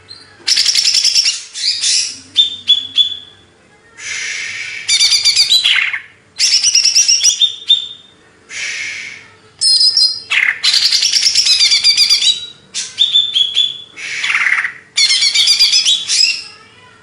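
Cucak ijo (green leafbird) singing loudly in fast, varied phrases of rapid trills and chatter, with short pauses between phrases.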